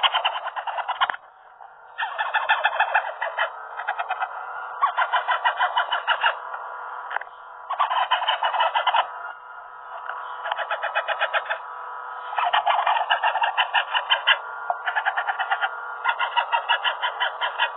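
Baby green ringneck parakeet chick giving rapid, pulsing food-begging calls, about ten pulses a second, in bouts of a second or two with short pauses, as it is hand-fed.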